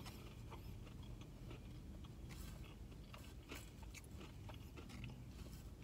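Faint chewing of a mouthful of crispy chicken and bacon McMuffin, with scattered soft crunching clicks as the bacon and breaded chicken are chewed.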